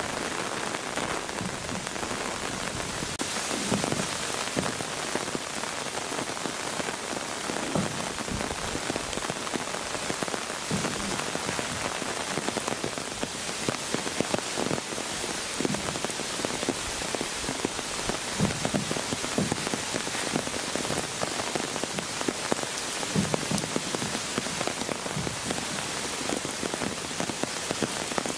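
Steady rainfall, an even hiss with many irregular louder drips splashing on wet ground and rock.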